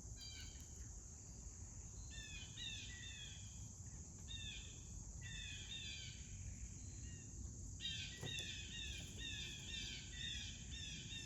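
Birds singing in bursts of quick, repeated falling chirps, over a steady high insect drone.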